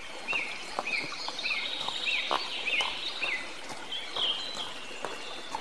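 A bird calling: a run of short rising-and-falling chirps, about two a second, then a higher warbling call about four seconds in, over a faint steady hiss.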